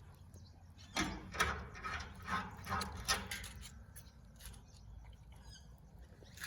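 A dog chewing a meal of raw beef tartare mixed with eggshells: a run of short, wet chewing and crunching sounds about three a second, starting about a second in and growing fainter after a few seconds.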